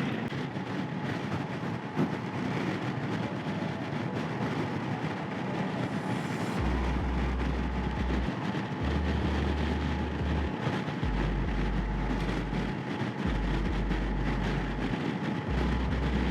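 Wind and road noise from a Honda Africa Twin motorcycle cruising at motorway speed: a steady rushing hiss. From about seven seconds in, a low rumble comes and goes several times.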